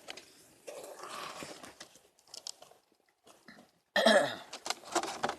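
A person's quiet breath and mouth noises with faint clicks, then a short voiced burst like a cough or throat-clearing about four seconds in.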